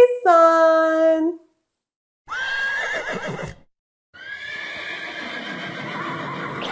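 A held, voiced 'naay' imitating a horse's neigh. Then a horse whinnies twice: a short rising call about two seconds in, and a longer, rougher neigh from about four seconds that runs on.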